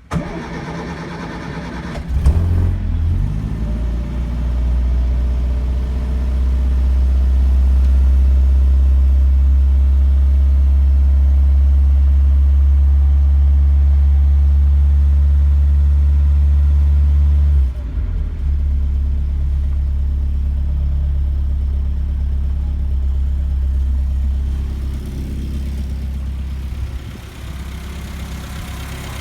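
A 1959 Morris Minor Traveller's 948 cc four-cylinder engine starting from cold after two weeks unused. The starter cranks for about two seconds before the engine catches, then it runs at a raised, steady speed. About two-thirds of the way through the engine speed drops, and it settles lower again near the end.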